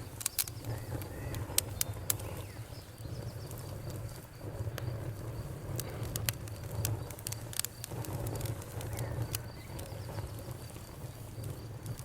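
Bonfire crackling, with sharp, irregular pops and snaps over a low, steady rumble of burning wood. A faint, steady cricket trill runs underneath.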